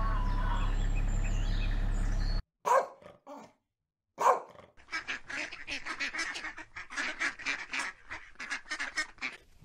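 Mallard duck quacking in a rapid run of short calls over the last five seconds. Before it comes a steady low hum with faint high chirps, which cuts off sharply, then a couple of short sharp sounds.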